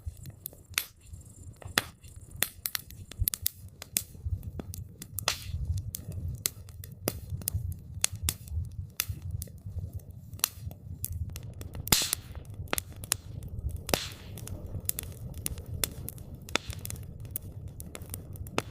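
Wood campfire crackling: irregular sharp pops and snaps of burning wood, several a second, over a steady low rumble, with one louder pop about twelve seconds in.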